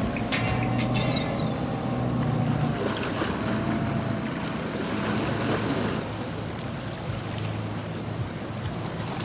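Boat engine running with a steady low drone, over surf and wind buffeting the microphone.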